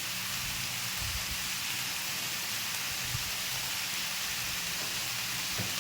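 Chicken pieces frying in hot oil and spices in a kadai: a steady sizzling hiss.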